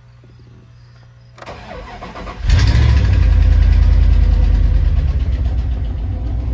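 Cold start of a 2001 Dodge Ram 1500's 5.2 Magnum V8: the starter cranks for about a second, the engine catches and settles into a loud fast idle that eases a little near the end. The owner takes the exhaust sound for an exhaust leak, which he traces to the manifold-to-downpipe joint.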